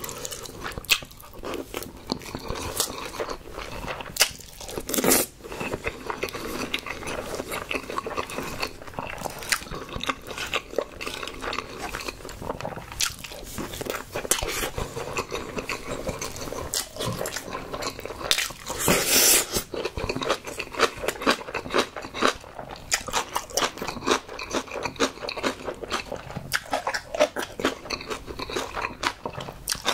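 Close-miked chewing of a mouthful of rice and fried egg: many wet smacks and small clicks. A louder, brief burst of noise comes about 19 seconds in.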